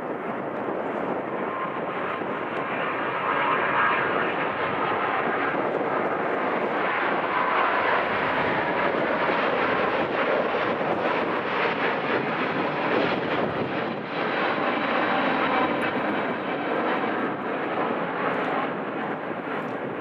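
Airliner engines running, a continuous rushing noise that swells a few seconds in and holds steady, with a faint high whine on top.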